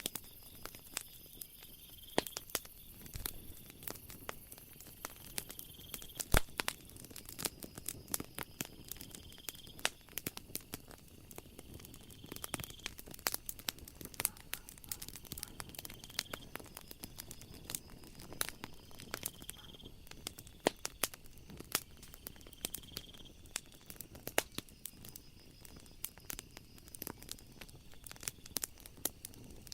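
Wood fire crackling, with sharp pops and snaps scattered throughout. Behind it a high trill of night insects comes back every three seconds or so.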